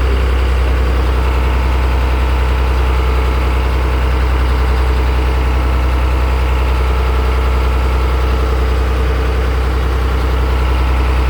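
Boat engine running steadily under way, a constant deep hum with no change in speed.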